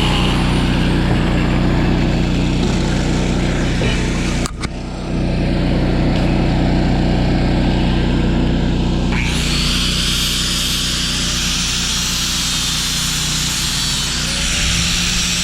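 Engine-driven welder running steadily. A stick-welding arc adds a crackling hiss that stops just after the start and is struck again about nine seconds in.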